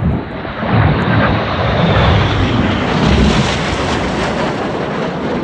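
Red Arrows BAE Hawk jets flying over, a loud rushing jet noise that swells about a second in and stays loud, easing slightly near the end.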